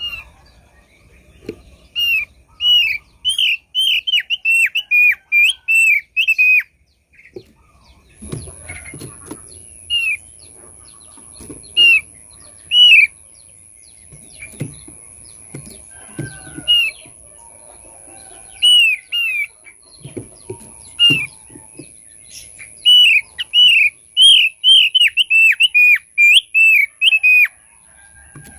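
Thick-billed white-eye (opior paruh tebal) calling: runs of clear, downslurred whistled notes, about two a second, lasting several seconds at the start and near the end, with single notes between. A steady, thin, high-pitched tone comes in about eight seconds in and holds, and faint low knocks sound now and then.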